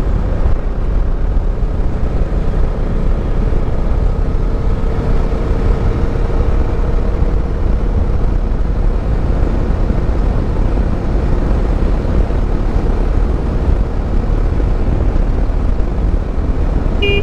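Motorcycle riding at speed: heavy wind rush buffeting the microphone over the steady engine and road noise. A short horn beep sounds at the very end.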